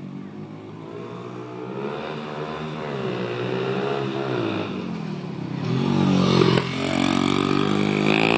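Small single-cylinder pit bike engine being ridden, its revs rising and falling over and over, growing louder about six seconds in.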